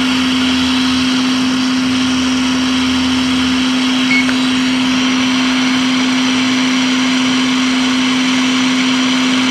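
Hot air rework station blowing steadily, a constant motor hum under a rush of air. A lower hum drops out about three and a half seconds in, and there is a brief tick about a second later.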